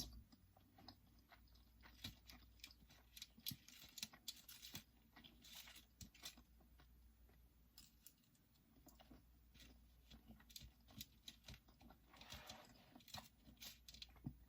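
Faint chewing and soft mouth clicks of someone eating, scattered irregularly over a low steady hum.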